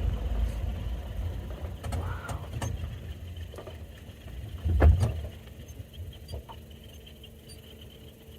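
Low rumble of a safari vehicle's engine, fading away, with a single heavy thump about five seconds in. Insects chirr faintly near the end.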